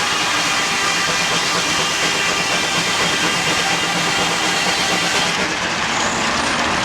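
Steam traction engine belt-driving a sawmill's saw and planer: a steady, loud hissing and mechanical din of the engine and running machinery.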